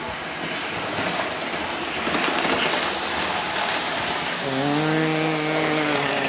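Steady whirring running noise of a model train on the layout. Near the end a steady horn-like tone with overtones sounds for about two seconds.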